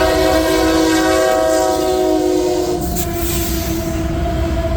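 Locomotive air horn sounding a long chord over the low rumble of a loaded coal train going by; the horn's tones change about three seconds in.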